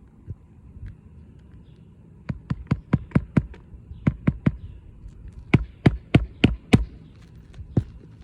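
Hammer driving roofing nails through an asphalt shingle on a roof deck: quick runs of sharp strikes, several blows a second, in three runs with a pause between each, and a single blow near the end.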